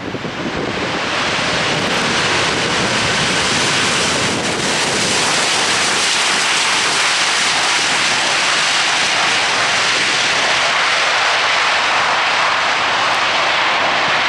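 Loud jet engine noise from an Airbus A320-232 with IAE V2500 turbofans on landing, swelling over about the first second and then holding steady.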